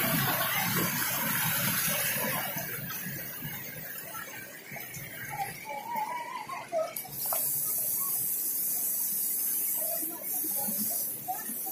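Waterfall rushing as a steady hiss of falling water, fading somewhat after the first few seconds, with faint distant voices.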